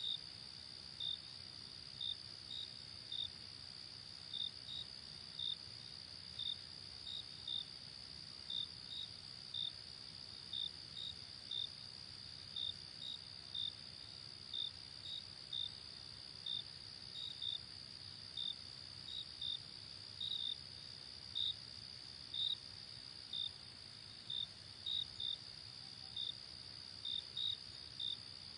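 Crickets chirping at night: a steady high trill with short chirps about twice a second, over a faint low background hiss.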